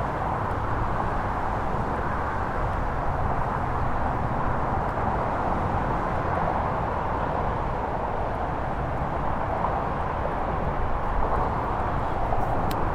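Steady rush of highway traffic from the interstate bridge overhead, with wind rumbling on the microphone. A couple of faint clicks come near the end.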